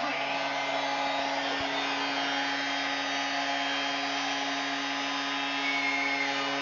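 A steady whirring noise with a low hum, like a small motor running; the hum stops near the end.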